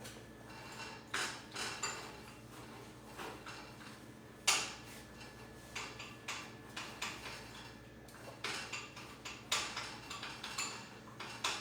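A utensil stirring and scraping a mixture in a hot dish, with irregular clinks and taps against the dish; the sharpest knocks come about four and a half and nine and a half seconds in.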